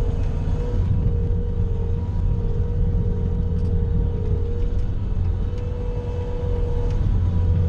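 Bobcat skid steer engine running steadily while plowing snow: a constant low rumble with a steady whine held above it.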